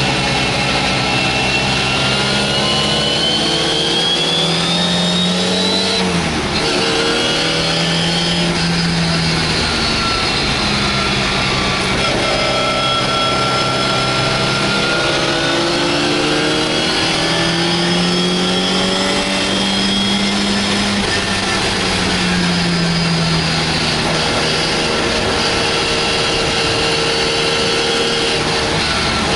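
MGA race car's four-cylinder engine at racing revs, heard from inside the cockpit: the pitch climbs under acceleration, drops sharply at a gear change about six seconds in, and falls and rises again through the corners, over steady wind and road noise.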